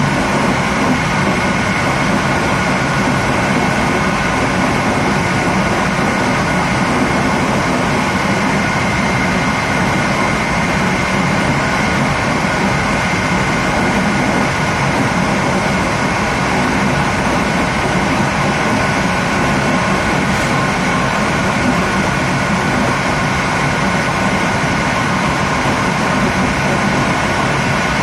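Steady running noise of a TLK passenger train moving at speed, heard from its last carriage, with a faint steady high whine.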